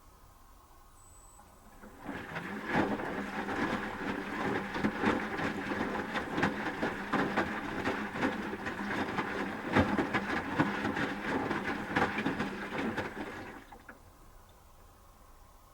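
Asko Quattro W6098X washing machine drum tumbling the wet wash load, with water and laundry splashing and knocking over the motor's hum, during the heating phase of the cycle. The drum starts turning about two seconds in and stops for a pause near the end.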